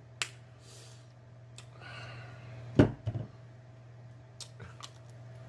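Mukbang eating sounds of a person chewing a hot-sauced mussel: wet mouth clicks and lip smacks, the sharpest one about three seconds in, with a few softer clicks after. A low steady hum sits underneath.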